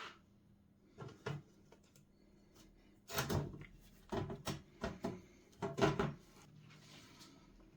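A series of short knocks and clatters of objects being handled and set down: two brief ones about a second in, then a busier run of knocks from about three seconds in until just past six seconds.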